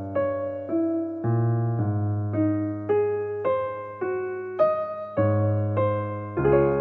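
Electric piano music: a slow melody of single notes, about two a second, over held low bass notes.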